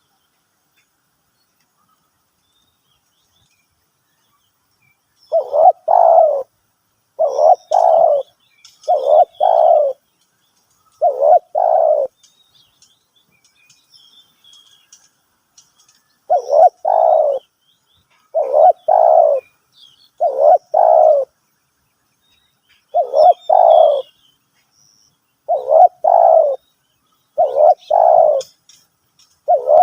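Spotted dove cooing: a series of low coo phrases, each about a second long, starting about five seconds in, with a short break near the middle. Faint small-bird chirps sound higher up between them.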